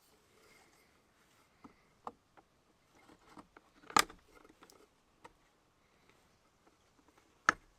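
Scattered light clicks and taps of small hard objects being handled, with two sharper, louder clicks, one about four seconds in and one near the end.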